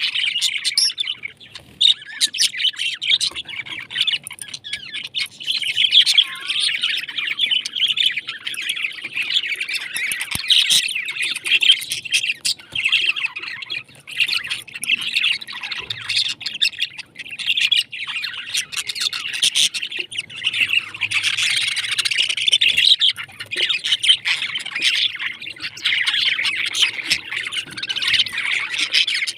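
Pet parrots chirping and chattering without pause, a dense mass of rapid high calls.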